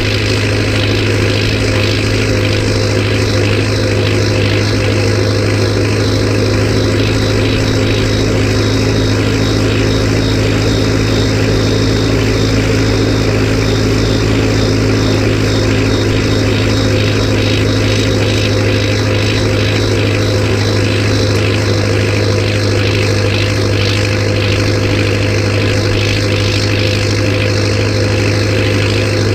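Massey Ferguson tractor diesel engine running steadily at constant revs, a loud even low drone with no revving.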